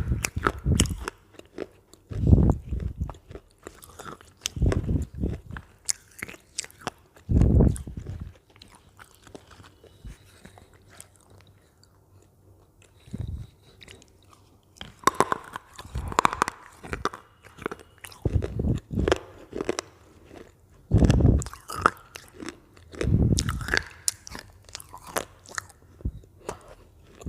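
Close-miked biting and chewing of crisp Lay's potato chips: clusters of sharp crunches, with a quieter lull of a few seconds around the middle before the crunching resumes.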